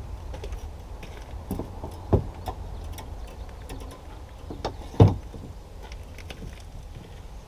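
Fishing gear being handled: scattered light clicks and rattles, with two sharper knocks, about two seconds in and about five seconds in, over a low steady rumble.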